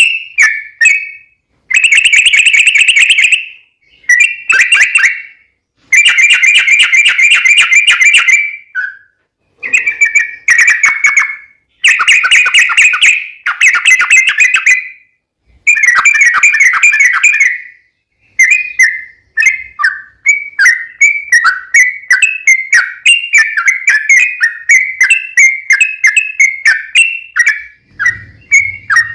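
Yellow-vented bulbul (trucukan) singing its long rapid rolling song: bursts of fast, bubbly whistled notes, each a second or two long with brief pauses, giving way after about eighteen seconds to a steady string of quick separate chirps.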